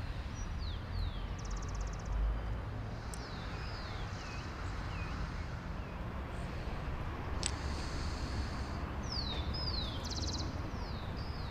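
Small birds chirping over a steady low rumble. The song is a string of short downward-sliding chirps with a few quick buzzy trills, and two sharp clicks sound about three and seven and a half seconds in.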